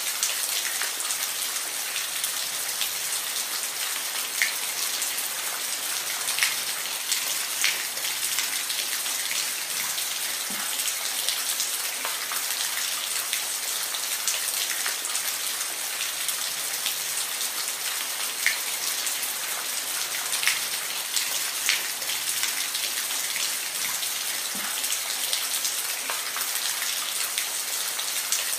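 Steady rain falling, a dense hiss with scattered sharper drops landing close by.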